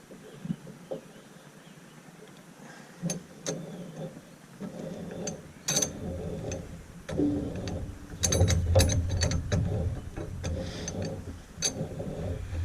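Metal clinking and clicking of tractor check chains and hitch hardware being handled and fitted on the three-point linkage. The clicks come scattered at first and grow more frequent, with a low rumble joining them about seven seconds in.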